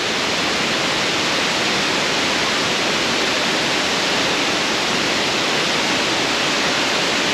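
A waterfall rushing steadily, a dense even hiss of falling water with no change in level.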